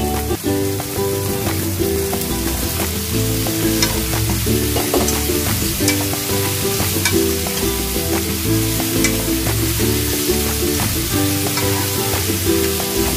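Cauliflower florets sizzling in a hot oiled pan as a spatula stirs them, with sharp clicks of the utensil against the pan now and then. Background music plays underneath.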